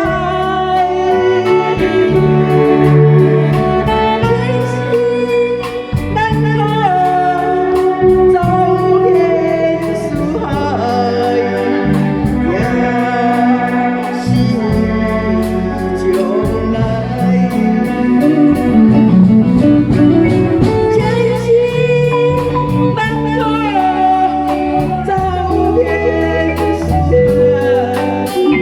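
A woman singing a ballad over instrumental backing with bass and a steady beat.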